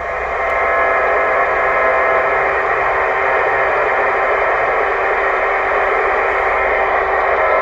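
Steady hiss of radio static from a two-way radio receiver on an open, empty channel. It is squeezed into a narrow voice-channel band and starts just after the last station signs off.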